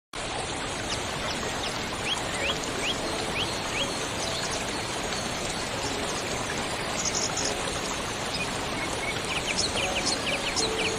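Steady rushing of a waterfall, with short high bird chirps over it: a quick run of them a couple of seconds in and more near the end.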